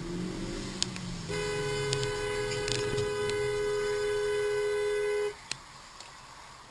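A car horn held steadily for about four seconds on two close pitches, then cut off abruptly, over low road noise.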